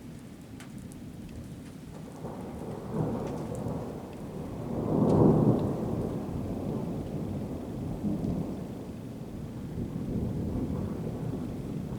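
Rolling thunder: a low rumble builds about two seconds in, is loudest around five seconds, then rolls on more softly, over light rain.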